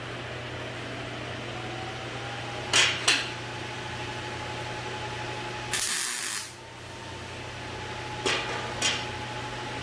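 Short bursts of loud hissing over a steady hum: two quick spurts about three seconds in, a longer one near the middle, and two more near the end.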